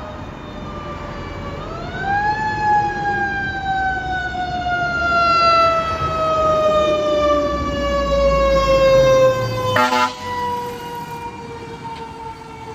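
Fire engine's mechanical siren winding up briefly, then coasting down in a long, slowly falling wail, with low engine rumble. A short horn blast sounds near the end.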